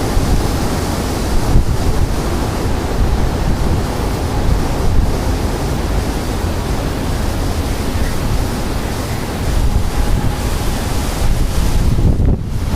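Strong storm wind buffeting the microphone: a loud, continuous rushing rumble that swells in gusts now and then.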